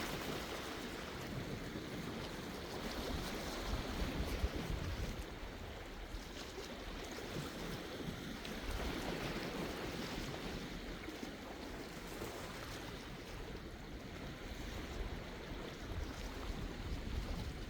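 Sea waves washing onto the shore, a steady surf hiss that swells and eases as the waves come in, with some low wind rumble on the microphone.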